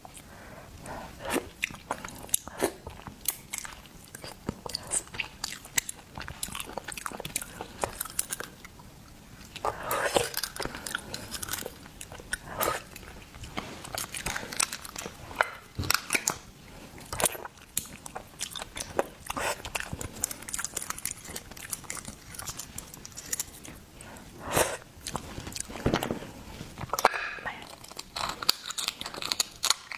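Close-miked eating of seafood: irregular crunching, biting and wet chewing, with many short sharp crunches and mouth clicks.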